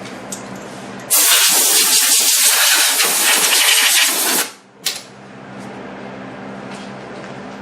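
Compressed air blasting dust out from under refrigerator coils: a loud hiss that starts about a second in and lasts about three and a half seconds, then one short second blast. A steady box-fan hum runs underneath.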